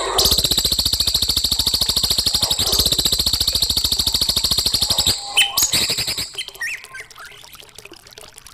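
A songbird sings a fast rattling trill of rapid, evenly repeated high notes for about five seconds, then breaks into a few short chirps and softer scattered calls.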